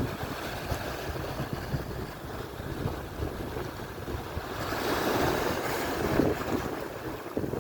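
Atlantic surf: waves breaking and washing on the shore, one wave swelling to a louder hiss about five seconds in, with wind buffeting the microphone.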